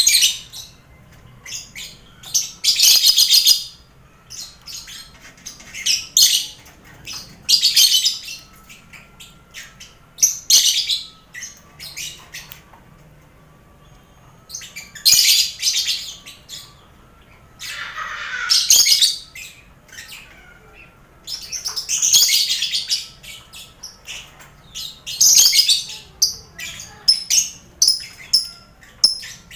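A lovebird colony calling: repeated bursts of shrill, high chattering every few seconds, with short chirps in between and a brief lull about halfway through.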